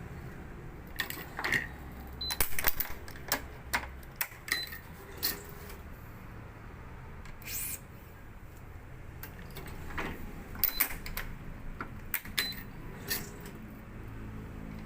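Badminton racket being strung on an electronic stringing machine: irregular sharp clicks and clacks from the clamps and the string being handled, over a low hum at the start and near the end.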